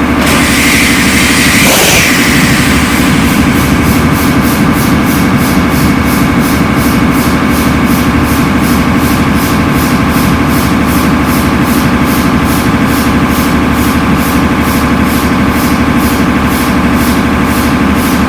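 Atlas Imperial marine diesel engine running steadily, with a sharp high ticking beat about two and a half times a second over its low drone. A rushing hiss rises over it for about the first two seconds.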